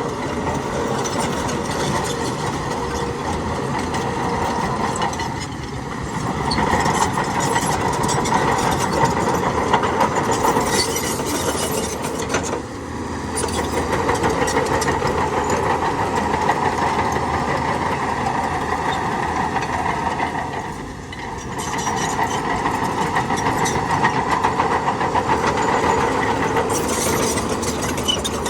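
Heavy diesel construction machinery running steadily with a clattering engine note, easing off briefly three times, every seven or eight seconds.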